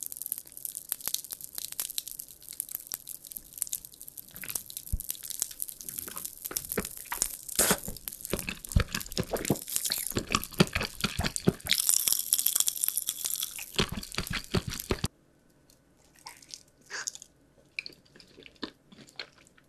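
Close-miked crunching and chewing of candy, a dense run of crackly bites. It cuts off abruptly about 15 seconds in, leaving only a few soft chewing clicks.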